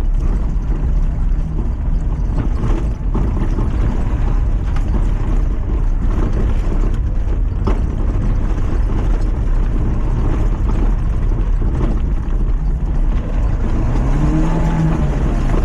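Lifted Mazda MX-5 driving along a rough track: steady engine and road rumble, with the engine briefly revving up and dropping back near the end.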